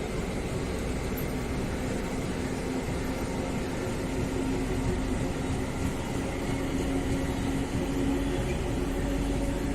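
DEMU (diesel-electric multiple unit) passenger train running as it speeds up: a steady drone with a held tone, edging slightly louder about halfway through.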